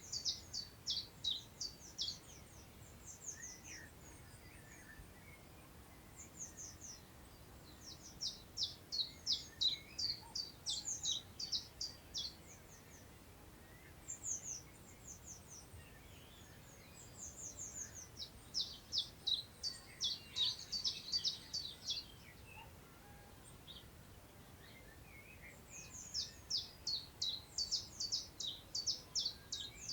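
A songbird singing repeated phrases of rapid high notes, each phrase lasting one to four seconds with pauses of a few seconds between, over a faint background of wind in long grass.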